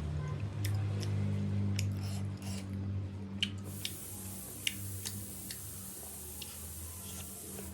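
Eating sounds from someone eating noodle soup: chewing with scattered sharp clicks and ticks, over a steady low hum. A thin high hiss comes in about halfway through.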